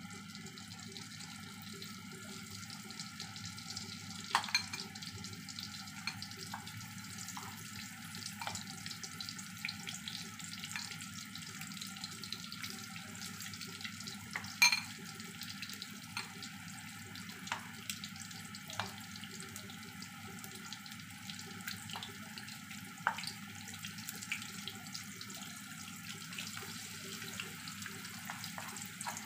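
Battered tempeh slices frying in oil in a wok: a steady sizzle with a few sharp pops.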